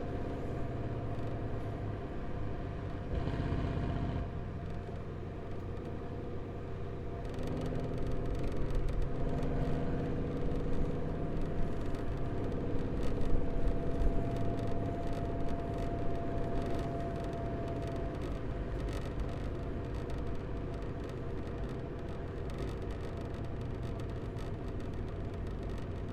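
Mercedes C63 AMG's M156 6.2-litre V8, fitted with long-tube headers, an X-pipe and no catalytic converters, running at steady, light revs with a steady drone. It gets louder for several seconds in the middle, then settles again.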